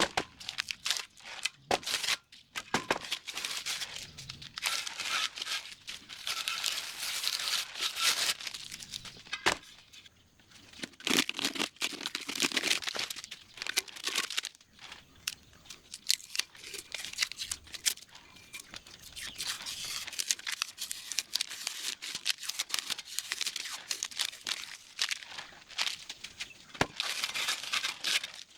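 Masking tape being peeled off freshly painted steel wheel rims and masking paper being crumpled: a run of irregular tearing and crinkling crackles with short lulls.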